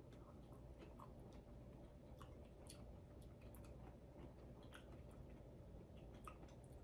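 Faint chewing of a mouthful of lacto-fermented giardiniera (pickled vegetables), with soft, irregular crunchy clicks.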